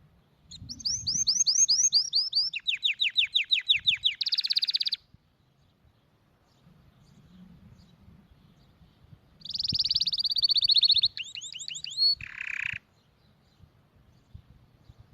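Domestic canary singing: two song phrases of fast repeated high notes, each note sweeping downward, changing to a new repeated note every second or two and ending in a buzzy trill. The phrases last about four and three seconds, with a pause of several seconds between them.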